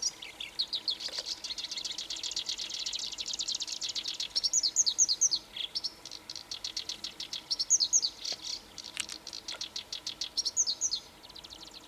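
Black-browed reed warbler singing: a long, fast, chattering song of rapid trills mixed with repeated phrases of sweeping notes, with brief breaks. It stops just before the end.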